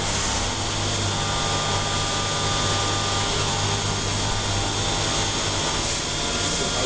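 Mori Seiki CNC turn-mill machine running a machining cycle: a steady cutting noise over a low hum, with thin steady whining tones higher up.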